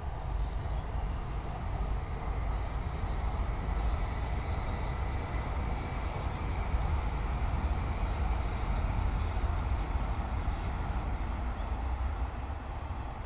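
Train crossing a steel truss railway bridge: a steady, heavy rumble with wheel and rail noise that lasts throughout and swells a little in the middle.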